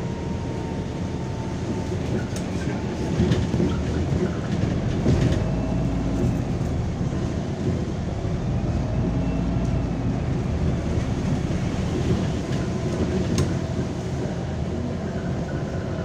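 MAZ-203 city bus heard from inside the cabin while under way on a wet road: a steady engine and road drone, with a faint whine that rises and falls in pitch and a few sharp rattles or clicks.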